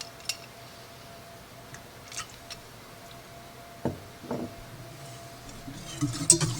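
A few light clicks and taps of kitchen utensils over a faint steady hum, while vanilla is measured into chocolate icing. Near the end, background music with a percussive beat comes in.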